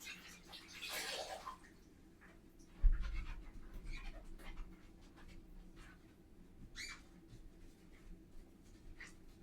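Bathroom cleaning noises: a short burst of scrubbing about a second in, scattered light clicks and knocks, and a dull thump near three seconds, the loudest sound.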